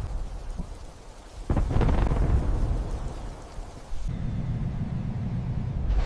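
Thunder with rain. A sudden crack about a second and a half in fades away as it rolls, then a low steady rumble sets in about four seconds in.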